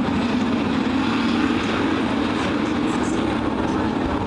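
Race truck engines running steadily at speed around the track, a continuous engine drone that holds level throughout.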